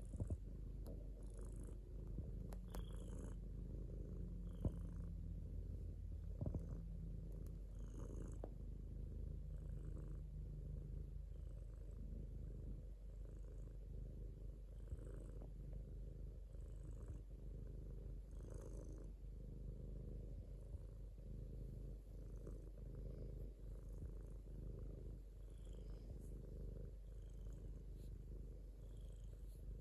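Domestic cat purring steadily: a continuous low, fast-pulsing rumble, with a few faint clicks in the first several seconds.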